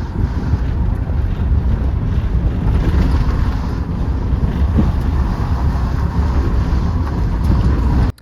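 Steady low rumble of a vehicle travelling on a road, with wind noise on the microphone; it cuts off abruptly near the end.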